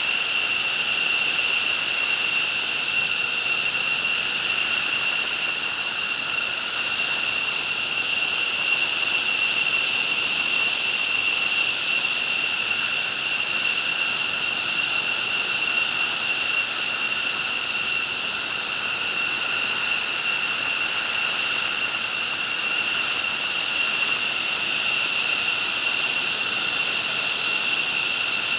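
F-15 fighter's turbofan engines running steadily on the ground, a loud, constant jet whine with several high, piercing tones over a rushing hiss.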